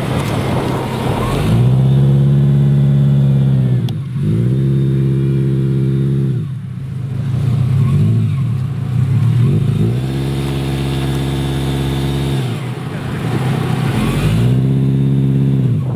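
Subaru Impreza wagon's flat-four engine revving hard in about five long bursts, each held high for a couple of seconds and then dropping back, as the car strains against deep mud ruts.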